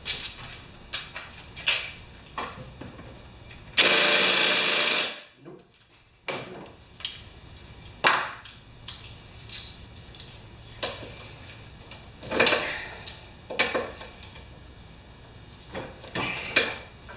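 Socket wrench and tools knocking and clicking against a lawnmower while the blade bolt is being loosened. About four seconds in comes one loud burst of noise lasting about a second and a half.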